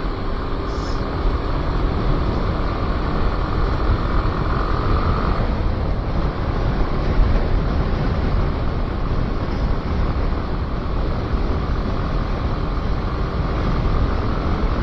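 Motorcycle on the move: steady wind rush over the microphone with the engine and road noise running underneath, and a faint steady whine at times.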